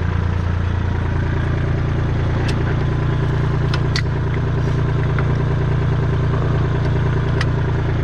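A vehicle engine running steadily at low speed, its pitch lifting slightly about a second in, with a few light clicks and knocks over it.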